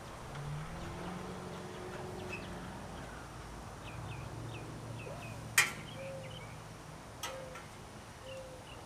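Small birds chirping over a low steady hum, with a sharp click about five and a half seconds in and a fainter one a couple of seconds later.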